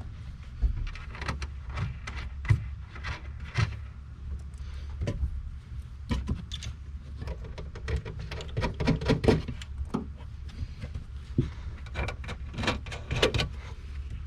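Irregular clicks, knocks and rattles of a car tail light assembly being handled and worked into place against the body, over a steady low rumble.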